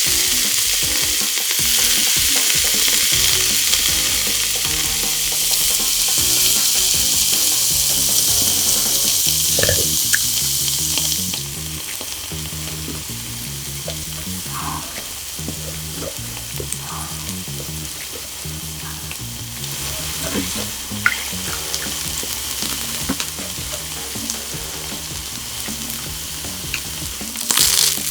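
Slices of Korean Hanwoo beef sizzling as they grill. The sizzle is loud for about the first eleven seconds, then drops to a quieter sizzle and swells again near the end, with a few small clicks.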